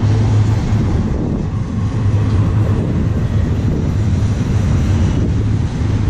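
Double-stack intermodal freight cars of a BNSF train rolling past at close range: a steady rumble of steel wheels on rail.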